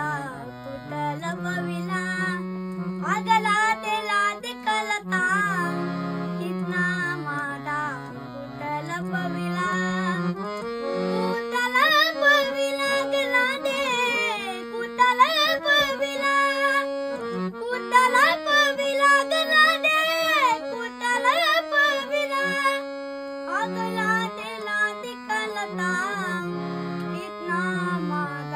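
A boy singing a Marathi gaulan, a devotional folk song, with a wavering, ornamented melody over steady held harmonium chords.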